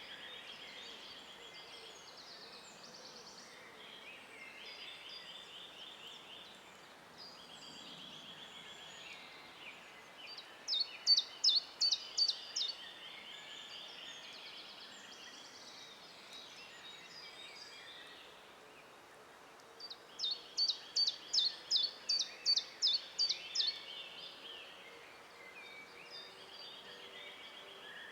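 Woodland birds singing. One bird gives a loud, high song of about ten quick, sharp notes twice, roughly ten seconds apart, over softer trills and chirps from other birds.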